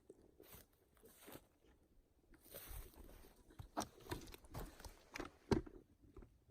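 Footsteps crunching and rustling over the forest floor in an irregular, uneven rhythm, with a sharper crack about five and a half seconds in.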